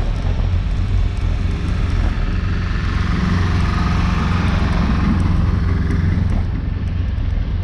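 Wind rumbling on the microphone of a camera riding on a road bike, with a car passing: its tyre hiss swells about halfway through and fades a few seconds later.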